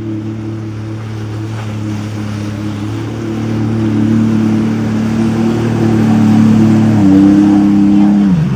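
Jet ski engine running at a steady speed, growing louder, its pitch stepping up slightly about seven seconds in and then dropping just before the end.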